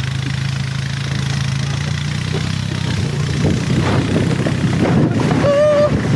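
A vehicle engine running with a steady low hum, turning louder and rougher about three seconds in as it takes up the pull. Near the end comes one brief high-pitched call.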